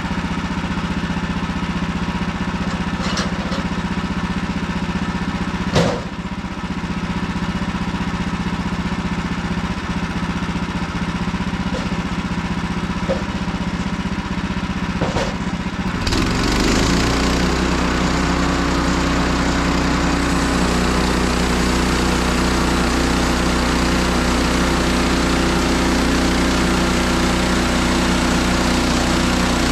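Woodland Mills HM130MAX sawmill's gas engine idling steadily, with a few light clicks and one sharp knock about six seconds in. About sixteen seconds in it is throttled up and runs louder and steady at full speed.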